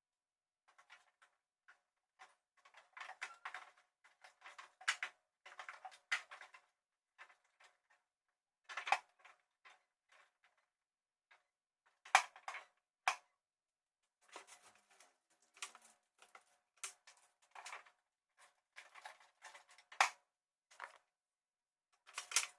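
Rapid, irregular clicks and light clatter of objects being handled and set down while cleaning out a refrigerator, sped up by the time-lapse. A few louder knocks stand out, about 9, 12 and 20 seconds in.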